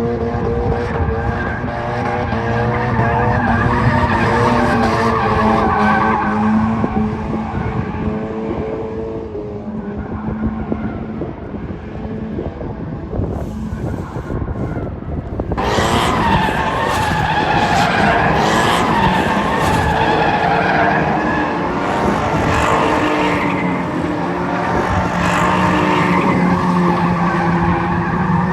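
Mazda NC MX-5 Miata's four-cylinder engine running hard as the car drifts, with the tires skidding and squealing. About fifteen seconds in, the sound turns suddenly louder and harsher with more tire noise.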